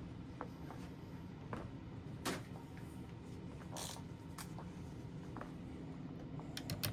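Hands handling wires and connectors: scattered light clicks, a brief rustle near the middle and a quick run of clicks near the end, over a steady low hum.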